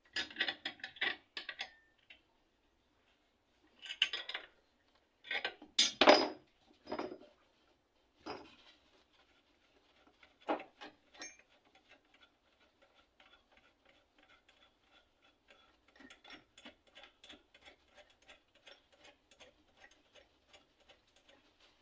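Metallic clinks and knocks in separate clusters, the loudest about six seconds in. After that comes a faint, even run of rapid ticking, about four ticks a second, lasting to the end.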